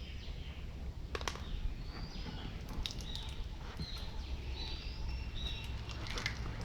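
Birds chirping in short repeated calls over a steady low background rumble, with a few sharp clicks.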